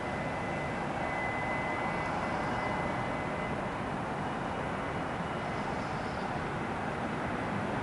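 Boeing 777 jet engines running with a steady rushing noise, and a faint high whine that comes in about a second in and fades a couple of seconds later.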